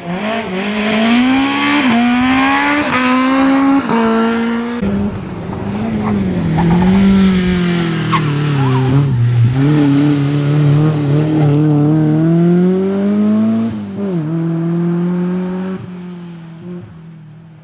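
Rally car at full throttle, its engine note climbing with quick gear changes. About five seconds in it drops sharply with a burst of noise as the car brakes and slides, with tyre squeal. It then revs back up through the corner and fades away near the end.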